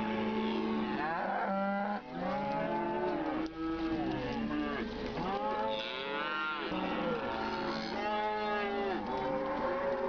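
Several cattle mooing, their long calls overlapping and following one after another without a break.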